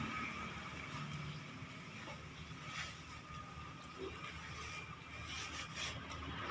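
An engine running steadily at low volume, a low even hum, with a few faint clicks about three seconds in and near the end.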